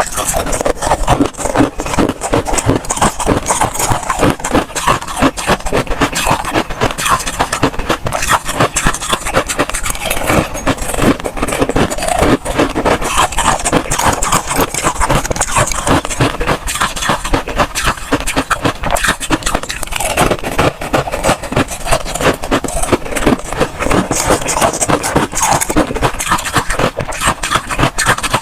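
Freezer frost crunching close to the microphone: a dense, unbroken run of crisp crunches and scrapes.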